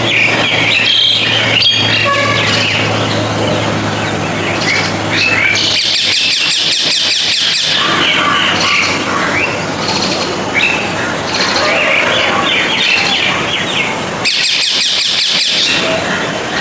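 Birds chirping continuously, with two bursts of rapid, buzzy pulsed calls, about six seconds in and about fourteen seconds in.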